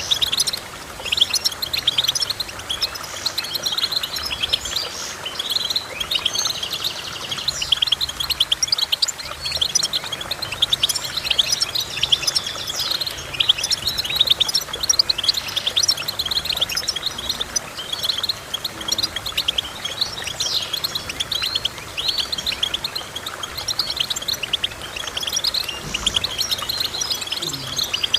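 Goldfinch singing: a continuous run of fast, twittering chirps and trills with frequent short pauses.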